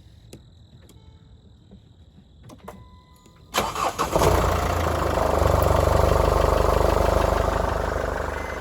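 Mercedes-Benz GLK250's OM651 2.1-litre four-cylinder diesel starting from cold: a few faint clicks, then about three and a half seconds in it cranks briefly, catches and runs at a loud cold idle that eases slightly near the end. No timing-chain rattle, the sign of a healthy chain.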